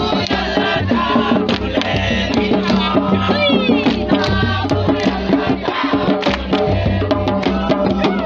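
Lively drum and percussion music, with many fast hand-struck beats and some voices over it.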